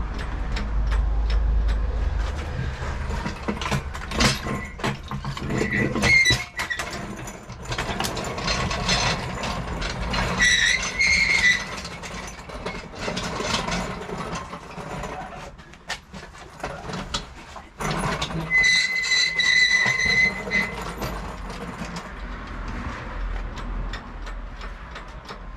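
Freshly built classic Mini 1310cc A-series engine with a fast road camshaft running just after its first start, with a rapid mechanical ticking and its speed and loudness rising and falling. A high squeal comes and goes: briefly about six seconds in, then longer around ten seconds in and again near the end.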